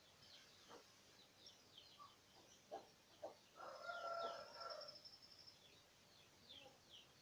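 Faint birdsong: short, high, falling chirps repeating throughout, with a louder held call of about a second near the middle.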